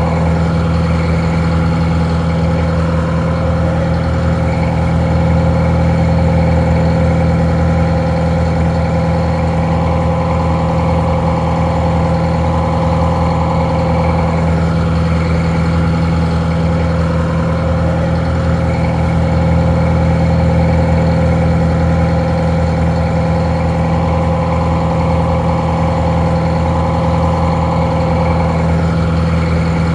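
Detroit Diesel 4-71, an inline four-cylinder two-stroke diesel, idling steadily.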